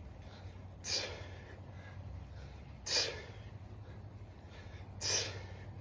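A person exhaling sharply three times, about two seconds apart, breathing hard through a set of kettlebell snatches. A steady low hum runs underneath.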